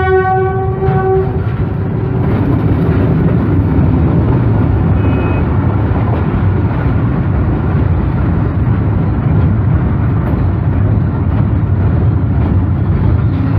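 A loud horn blast that stops about a second in, followed by a steady, heavy low rumble.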